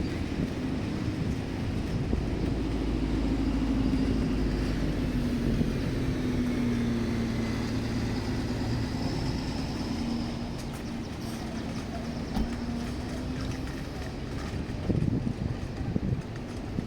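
An engine hums steadily, its pitch drifting slightly. It is loudest a few seconds in and then slowly fades as it moves away, over outdoor background noise, with a few brief knocks near the end.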